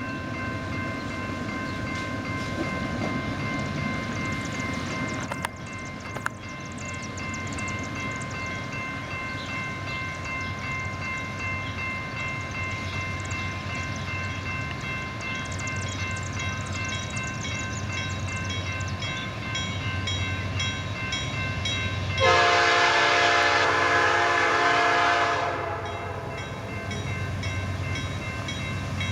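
Diesel freight locomotives approaching with a low rumble, the lead unit sounding its air horn in one long blast of about three seconds, a little over twenty seconds in.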